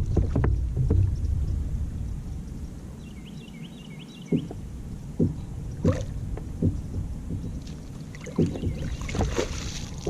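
Fishing kayak on the water: a low wind rumble easing off, then scattered knocks on the hull, with a quick run of short high chirps about three seconds in and a brief hiss near the end.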